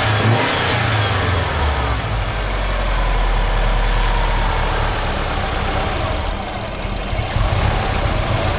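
Subaru flat-four engine running, its revs falling back to idle in the first couple of seconds and then idling steadily, while upper engine cleaner is drawn into the intake manifold through a vacuum hose.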